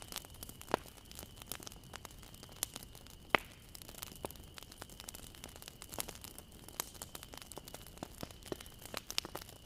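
Bonfire of burning wood crackling, with sharp irregular pops, one loud snap about a third of the way in. A faint steady high tone runs underneath.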